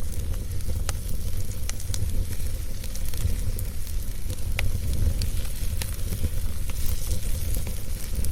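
Wood fire burning steadily with a deep low rumble, and scattered sharp crackles and pops from the burning logs every second or so.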